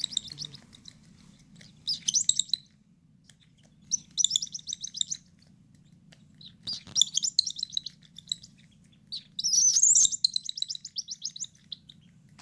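Five-week-old cockatiel chick's food-begging calls while being hand-fed formula: five bouts of rapid, stuttering high chatter, each about a second long with short pauses between, the longest near the end.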